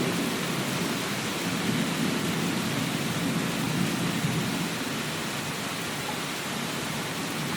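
Steady rain. A low rumble swells under it a couple of seconds in and fades again.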